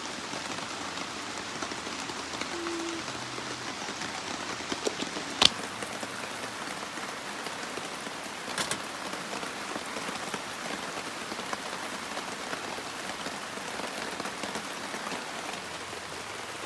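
Steady heavy rain falling, with a sharp click about five and a half seconds in and a softer one around eight and a half seconds.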